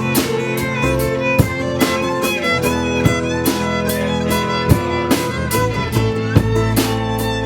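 Live band playing an instrumental passage with no vocals: sustained melody lines over guitar, with regular drum hits.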